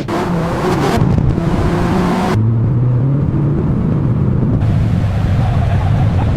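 Car engine running with wind noise over it, the sound changing abruptly a few times as if cut between shots.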